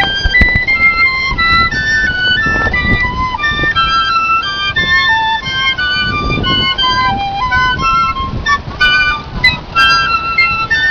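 Piccolo playing a quick, bird-like melody of short notes that hop up and down in pitch.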